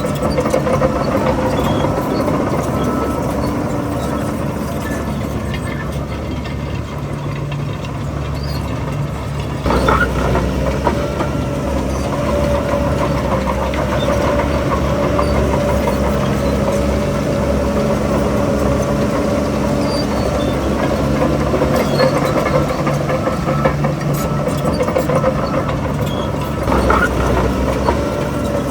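Heavy diesel earthmoving machinery running steadily. The engine works harder from about ten seconds in and surges again near the end.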